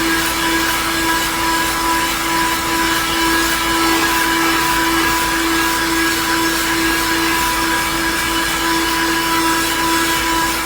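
Cheap handheld car vacuum cleaner running steadily: a constant, unchanging motor whine over the rush of air being drawn through the nozzle.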